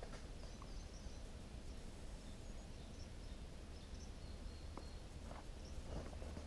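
Faint outdoor ambience: a steady low rumble with scattered faint, high bird chirps, and a couple of soft clicks in the last two seconds.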